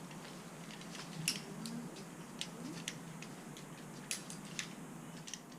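Irregular sharp clicks and taps, about eight of them at uneven spacing, over a faint steady outdoor background.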